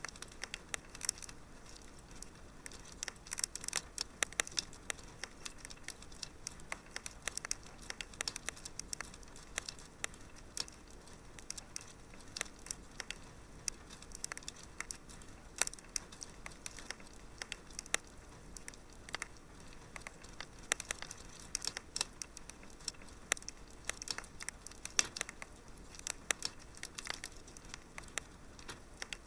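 Wood fire in a fireplace crackling steadily, with many sharp, irregular pops and snaps over a soft hiss.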